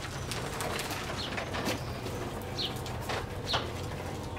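Bird chirping: short falling chirps about once a second, over a steady hiss with scattered sharp clicks.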